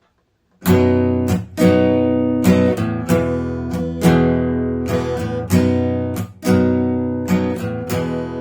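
Acoustic guitar strumming an intro, starting about half a second in: a rhythmic pattern of strummed chords ringing on.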